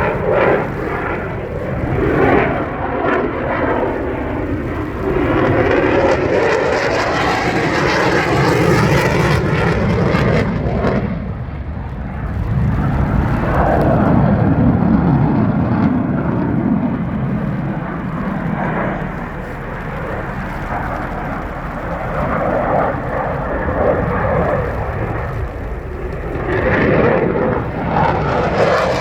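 Jet noise from a General Dynamics F-16AM fighter's F100 turbofan engine during a flying display, a loud, rushing roar that swells and fades several times as the jet manoeuvres overhead.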